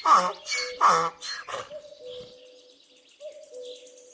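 Donkey braying: a run of rapid, loud hee-haw pulses that stops about a second and a half in. A quieter stretch follows, with a faint steady tone and a faint high trill.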